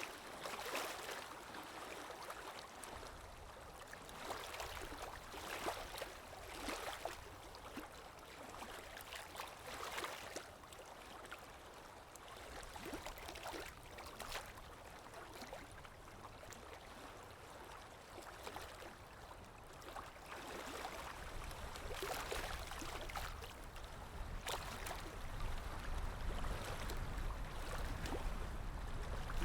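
Water lapping in small, irregular splashes about once a second, under a low wind rumble that grows stronger in the last third.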